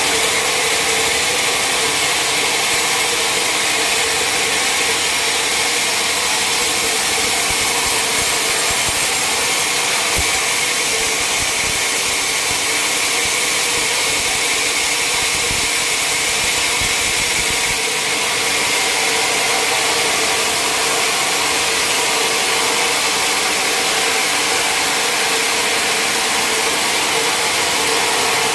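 Sawmill saw running steadily while cutting through a large mahogany log, a continuous loud machine noise with a steady hum.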